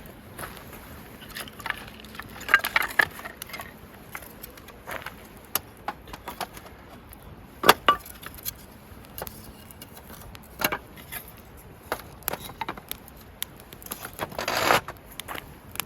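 Wood fire crackling, with scattered sharp pops and snaps, the loudest about halfway through, and a brief rustle near the end.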